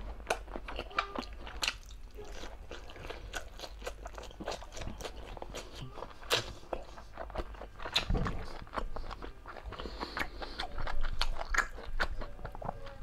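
A person chewing and smacking close to the microphone while eating soft braised pork humba, with many short mouth clicks. A dull low thump comes about eight seconds in.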